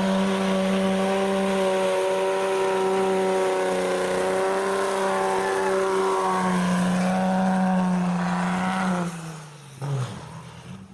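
A vehicle engine held at high, steady revs, then the revs fall away and it dies down about nine seconds in, with a short knock just after.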